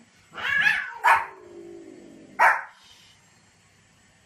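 A small dog barking: two quick barks close together about a second in, then a single bark about a second and a half later.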